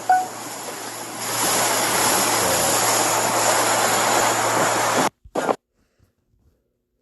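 Loud, steady rushing noise like wind or a distant roar, with a few short chirps at the very start. It cuts off abruptly about five seconds in, with one short burst just after, then silence.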